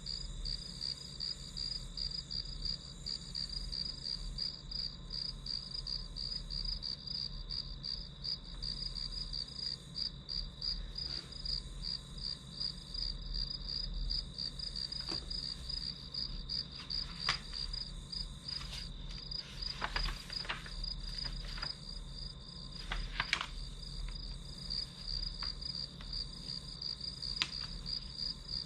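Crickets chirping in a steady, rapidly pulsing high trill that never stops. A few faint short taps come in the second half.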